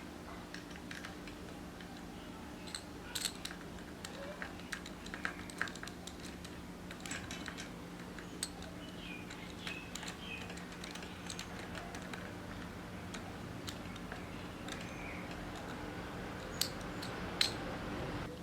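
Scattered light clicks and taps of bicycle parts and tools being handled during assembly, over a steady low hum, with two sharper clicks near the end.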